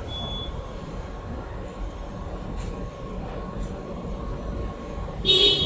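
Steady low rumble of passing vehicles, then a short, loud, high-pitched squeal or screech near the end.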